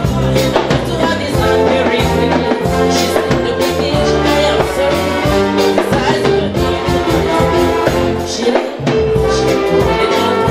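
Live band music with brass horns over a steady beat, with some singing.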